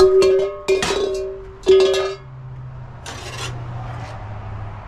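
Metal struck against metal three times, each clank ringing on with a clear pitch, about a second apart; a low steady hum follows.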